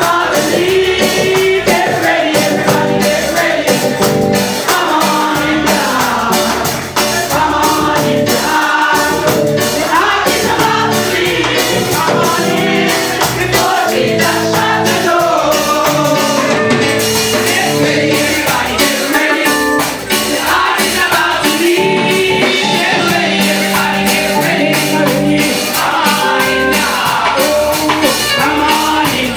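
Combined church choir singing a gospel song over instrumental accompaniment with a steady, driving beat.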